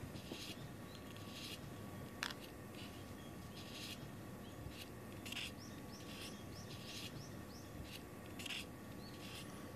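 Quiet room tone with a faint steady hum, and faint high chirps of small birds now and then, most of them between about six and eight seconds in.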